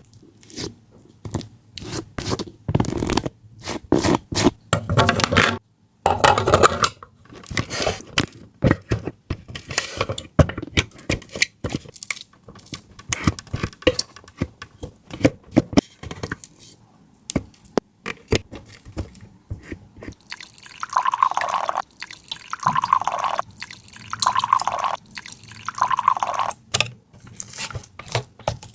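Kitchen handling sounds of food preparation: a dense run of clicks, scrapes and drips. About three-quarters of the way through come four short falling tones, roughly one every second and a half.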